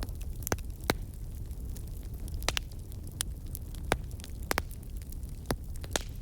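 Campfire burning with a steady low rumble and scattered sharp crackles and pops from the burning wood, about a dozen over a few seconds.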